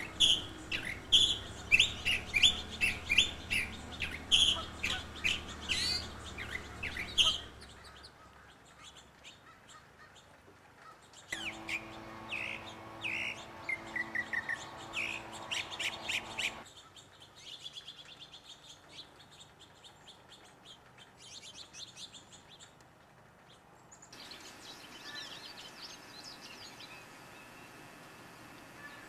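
Wild birds calling and singing in quick, repeated notes, in a run of separate recordings that change abruptly several times. The liveliest, loudest stretch of calls is in the first seven seconds, and the last few seconds are quieter and fainter.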